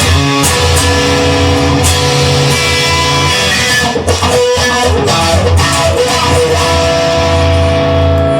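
Instrumental music: guitar, likely electric, playing sustained chords over a steady bass line, with a brief drop about four seconds in.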